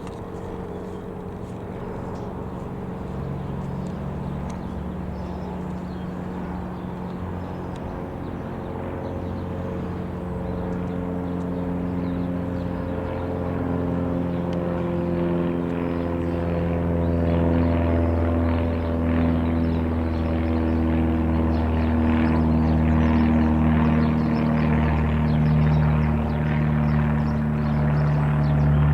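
Light aircraft approaching, its engine drone growing steadily louder, with several engine tones slowly drifting in pitch.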